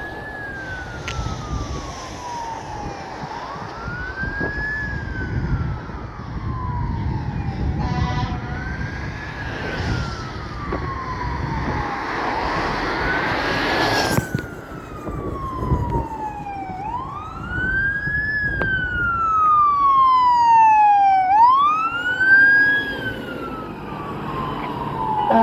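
Fire engine's siren on a slow wail, each cycle rising quickly and then falling away over about three seconds, over the rumble of the moving truck. It grows louder in the second half as the engine approaches.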